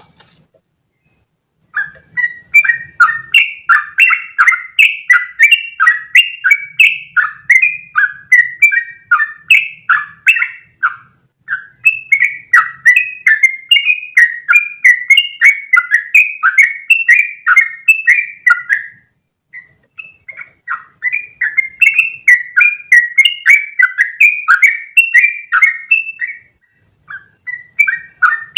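Yellow-vented bulbul (trucukan) singing a long, rapid run of chirping notes, several a second, broken by brief pauses three times.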